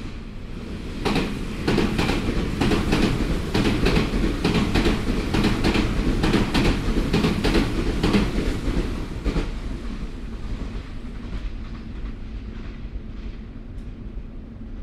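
Nagoya Municipal Subway 3000-series electric train running: about a second in, a loud stretch of rapid, irregular wheel clatter over the track starts, lasting about eight seconds, then the train settles back to a quieter running rumble.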